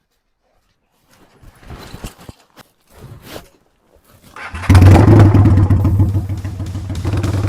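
A Honda Steed 600 V-twin motorcycle engine starting: a few scattered knocks and rustles, then about two thirds of the way in the engine catches loudly and settles into a steady, pulsing idle.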